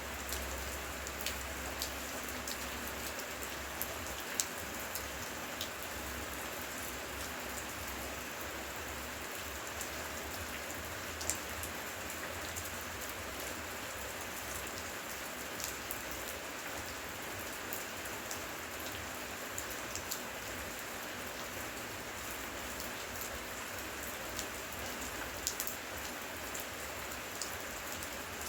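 Heavy rain falling steadily, a dense hiss with scattered sharp drop hits heard clearly above it.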